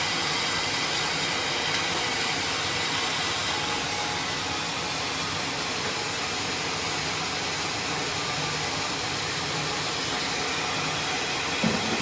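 Steady running noise of a sawmill machine, even and unbroken, with one short knock near the end.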